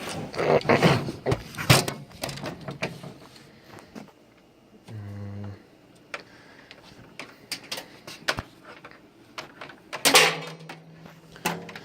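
Irregular clicks, knocks and clatter of computer parts and cables being handled, densest in the first two seconds and again about ten seconds in, with a short low hum about five seconds in.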